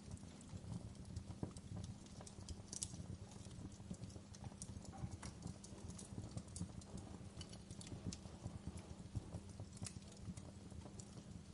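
Quiet wood fire crackling in a fireplace: scattered small pops and snaps over a low steady rumble, with a couple of sharper snaps.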